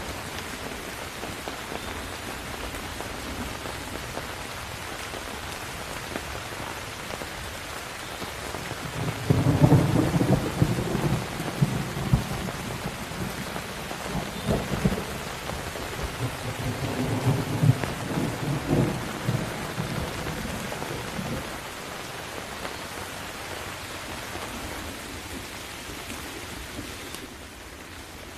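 Steady rain with thunder: low rolling rumbles come in about a third of the way through, loudest at first, with two more rolls that die away by about two-thirds through. Near the end the rain's hiss drops suddenly and turns duller.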